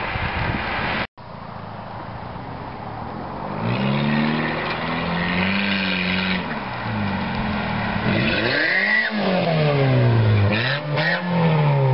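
Honda Civic 1.7-litre four-cylinder with its exhaust cutout open, revving up and down. The engine note climbs and holds for a couple of seconds, then swings up and down twice more.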